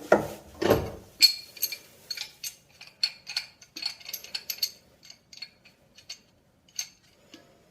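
A couple of dull knocks, then a run of small, irregular metallic clicks and clinks that thin out toward the end: hand tools working on brass and copper pipe fittings.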